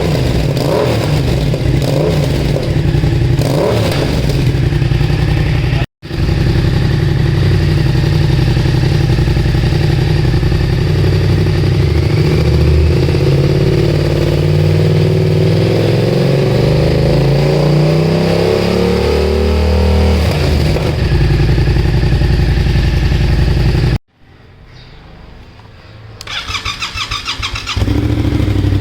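Yamaha MT-07's 689 cc parallel-twin engine running loud through a cheap aftermarket full exhaust system, popping in the first few seconds. It revs up steadily to a high pitch and drops back. Near the end it falls quiet for a moment, then starts up and runs again.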